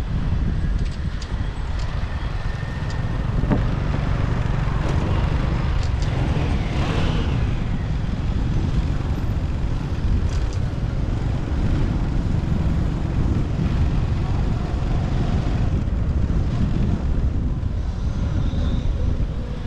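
Riding a motorcycle through city traffic: a steady low rumble of engine and wind on the microphone, with other vehicles passing.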